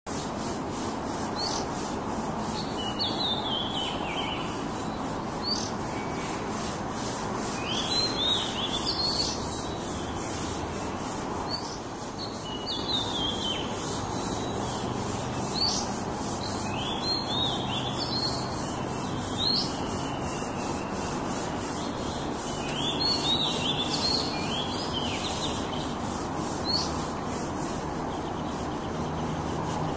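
Oriental magpie-robin giving short, downward-sliding chirping calls in clusters every few seconds, over a steady rushing noise.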